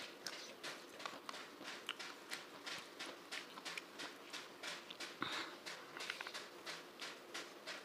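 Close-miked chewing of a mouthful of rice and curry, a steady rhythm of about three chews a second, with one louder knock about five seconds in.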